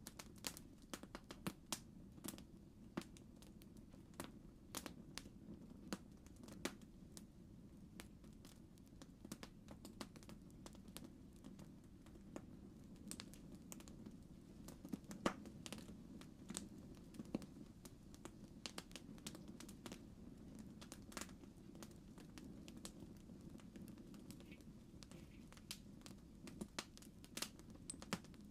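Campfire burning with faint, irregular crackles and pops of the wood over a low, steady rush of the flames.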